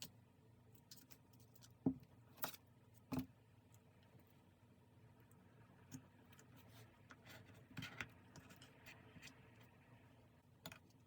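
Quiet handling of stationery during journal decorating: a few light taps and knocks, with short scratchy rustles of paper or stickers about two seconds in and again near eight seconds.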